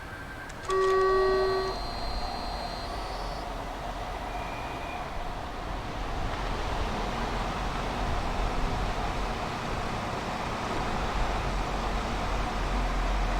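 A train sounds a single short whistle blast lasting about a second, then a steady rumble of the train running slowly builds.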